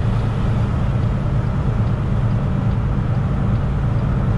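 Semi truck's diesel engine and road noise heard from inside the cab: a steady low drone.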